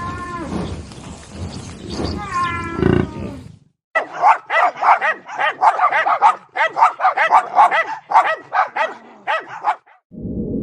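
A drawn-out, wavering animal cry, heard twice, then a break and a dog barking rapidly, about three barks a second for some six seconds.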